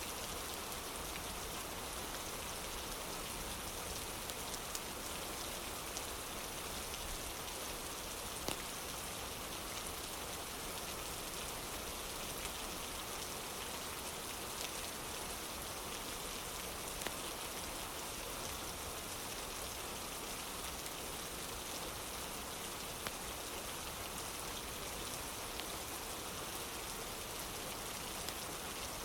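Steady rain falling, an even unbroken hiss, with a few sharp clicks scattered through it.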